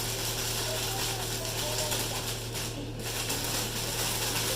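Fish fillets being shaken in a plastic bag of batter mix to coat them: a continuous crinkling rattle that pauses briefly about three seconds in. A steady low hum runs underneath.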